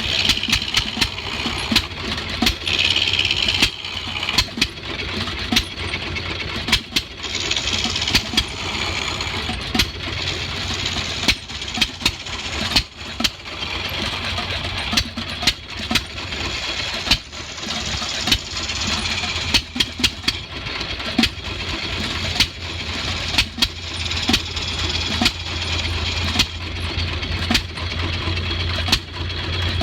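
An engine running with a steady low hum and many sharp, irregular knocks.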